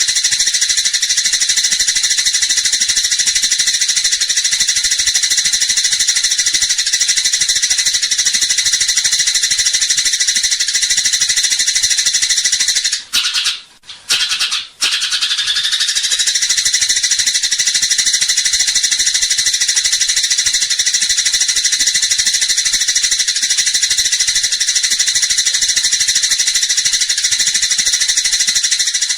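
Dense, continuous high-pitched rattling chatter of fighting house sparrows. It breaks off for about a second and a half a little before the middle, then starts again.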